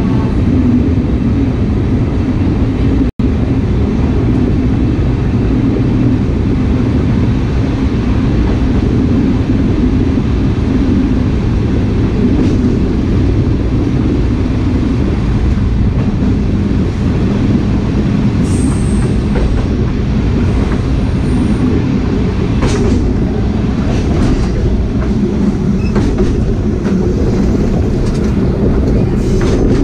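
Sagano scenic trolley train's SK200 passenger car running along the track: a steady low rumble of wheels on rail. A brief high wheel squeal comes about two-thirds of the way through, and a run of sharp clicks follows near the end.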